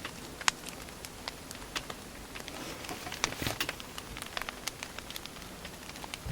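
Wood fire crackling: a steady hiss with irregular sharp pops and snaps from the burning logs, a small cluster of them about three and a half seconds in.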